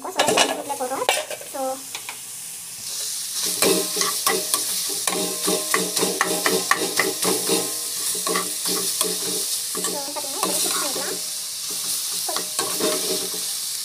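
Chopped onions, tomatoes, dried red chillies and coriander sizzling in oil in a pan while a spatula stirs them, knocking and scraping against the pan. The sizzle comes in about three seconds in, and the spatula strokes run about four a second for a while, then more loosely.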